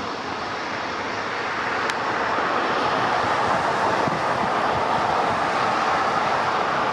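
Jet airliner engine noise, a steady rushing sound that grows louder over the first two or three seconds and then holds.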